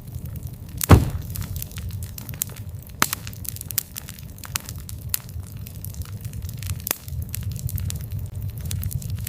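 Wood fire burning with a low steady rumble and frequent sharp crackles and pops, one loud crack about a second in.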